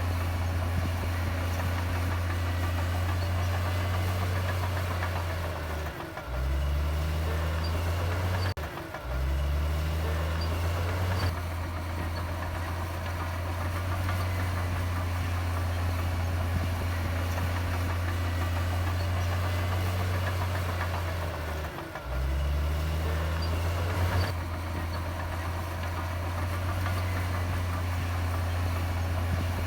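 Heavy diesel engine of earthmoving machinery running steadily with a deep hum. Three times its pitch sags and dips, then climbs back up as it picks up again.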